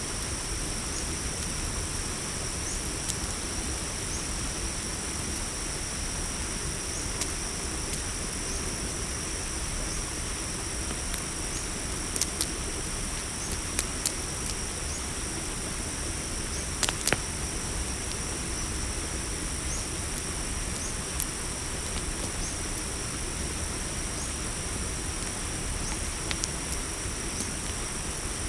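Night insect chorus of crickets trilling steadily over a campfire crackling, with a few sharp pops scattered through, several bunched together around the middle.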